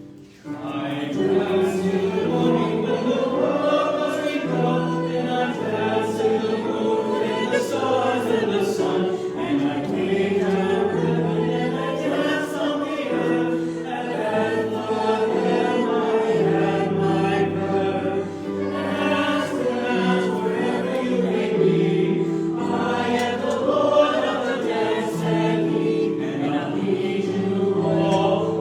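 Church congregation singing a hymn together in sustained, phrased lines.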